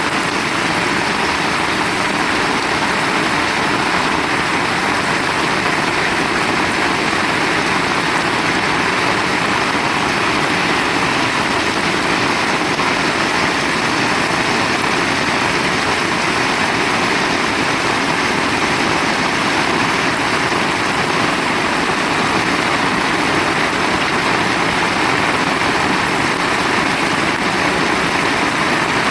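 Heavy rain pouring down, a loud, steady hiss that does not let up.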